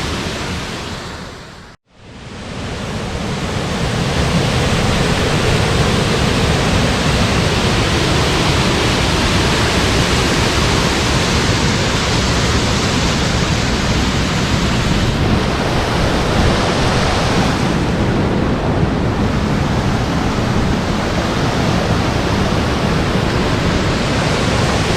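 Steady roar of the Belye Mosty (Jukankoski) waterfall, a large waterfall's rushing water. It drops out briefly about two seconds in, then swells back up to a steady rush.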